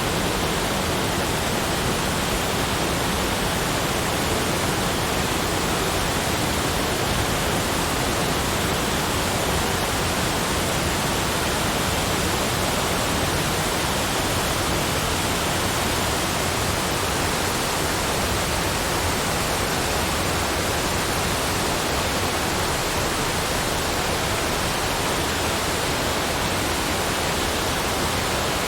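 Steady, unbroken rushing noise spread evenly from deep to high pitches, with no distinct events in it.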